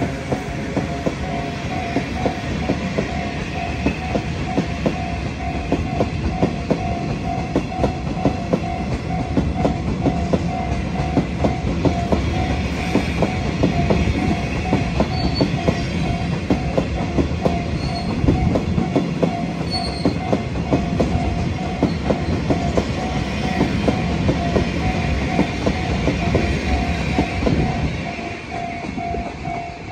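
Freight train of cement tank wagons rolling past a level crossing, wheels clattering steadily over the rail joints with a low rumble, while the crossing's warning bell rings in a steady pulsing tone. About 28 seconds in, the last wagons clear and the train noise drops away.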